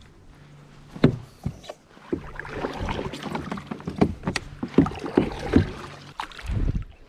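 Knocks and water sounds from paddling and moving about in a kayak, with the paddle or gear knocking on the hull several times, most sharply about a second in and again four to five and a half seconds in. Beneath them runs a low steady hum that stops about six seconds in.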